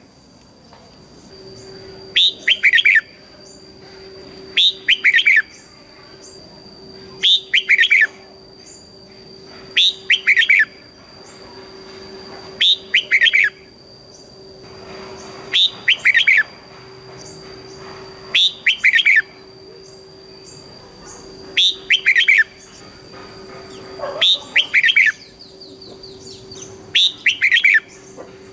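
Red-whiskered bulbul singing: about ten short, loud phrases of quick falling notes, one roughly every three seconds, the kind of song played to teach and excite caged bulbuls.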